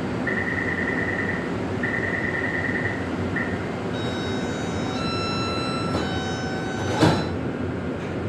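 Taipei Metro C381 train standing at a platform with its doors about to close. A rapid high-pitched pulsed warning beep sounds in three bursts, then a three-note door chime plays one note a second. About seven seconds in the sliding doors shut with a thump, all over the car's steady ventilation hum.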